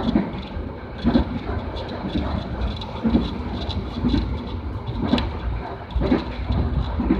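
Train running on the rails: its wheels clack over rail joints about once a second over a steady low rumble.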